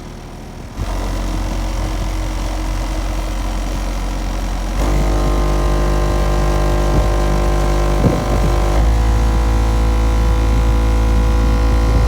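Rockford Fosgate 12-inch car subwoofers playing loud, deep held bass notes. The bass comes in about a second in, and about five seconds in further sustained tones join it, changing to new notes in sudden steps.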